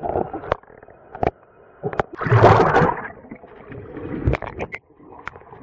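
Water sloshing and splashing close to the microphone as a person swims, with one loud splash about two seconds in and scattered sharp clicks of water against the camera.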